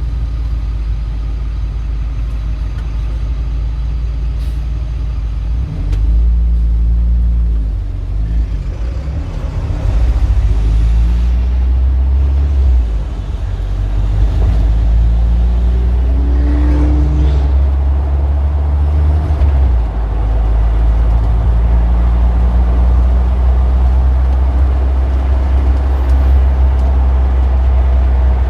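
Street traffic: cars and heavier vehicles such as buses and trucks driving by, their engines running over a steady low rumble that swells and eases as they pass.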